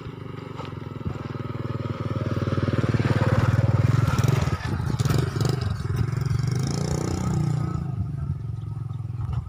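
A vehicle engine running close by with a fast, even pulsing note, growing louder to a peak about three to four seconds in, then easing off as it passes.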